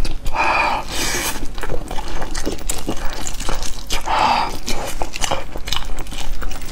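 Close-miked chewing and wet mouth smacks of steamed chicken meat, mixed with the tearing of the chicken by plastic-gloved hands. The sound is a dense run of sharp clicks and smacks, with two short noisier bursts about half a second and four seconds in.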